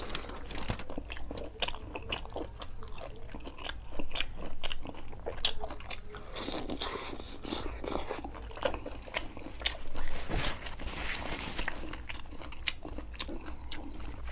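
Close-miked eating of chicken curry by hand: biting pieces of chicken and chewing with wet mouth sounds, many short clicks throughout.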